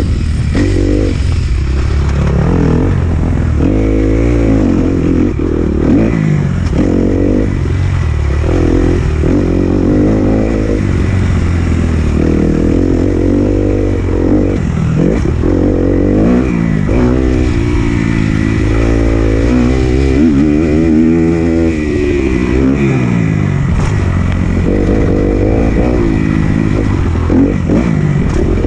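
Kawasaki KX250F four-stroke single-cylinder motocross engine on the track, its revs rising and falling over and over as the rider accelerates, shifts and backs off, with a constant low rumble and noise underneath.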